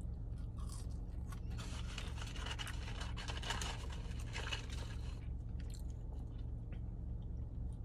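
Close-up eating sounds: chewing and working food in the mouth, with many small clicks, densest from about two to five seconds in, over a steady low hum.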